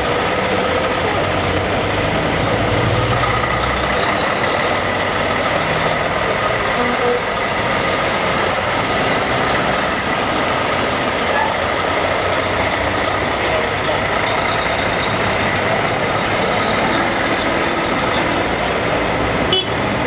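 Heavy trucks driving past: steady engine and road noise, with a low engine rumble in the first few seconds and a sharp click near the end.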